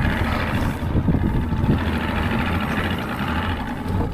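A vehicle engine running steadily at idle, a continuous low rumble.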